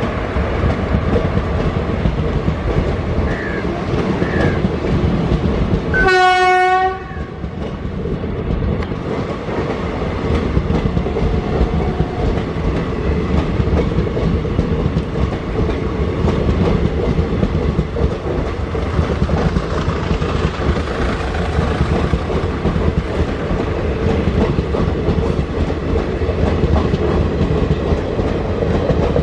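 Passenger express coaches rolling past close by, with a steady rumble and clickety-clack of the wheels. About six seconds in, a train horn sounds one short blast of about a second.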